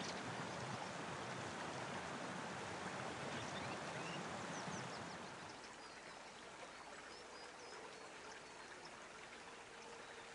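Running water with a steady rush, and faint high bird chirps over it. The rush drops quieter about halfway through.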